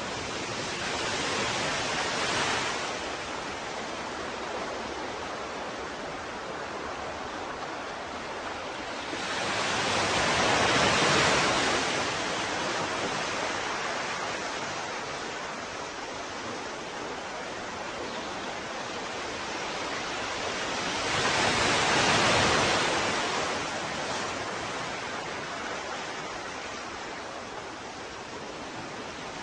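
Ocean waves breaking on a shore: a steady wash of surf with three larger waves cresting about two, eleven and twenty-two seconds in.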